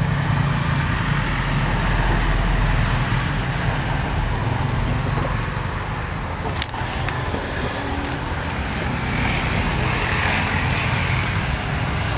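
Steady low rumble of road traffic, with a couple of sharp clicks about six and a half seconds in.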